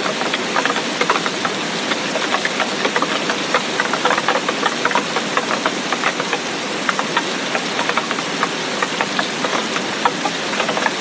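Heavy tropical-storm rain falling steadily, a dense hiss with many close drops ticking and crackling at irregular moments.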